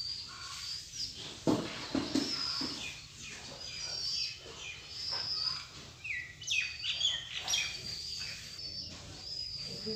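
Small birds chirping, short high phrases repeated about once a second, with a busier burst of calls about two-thirds of the way through. A couple of soft knocks about a second and a half in.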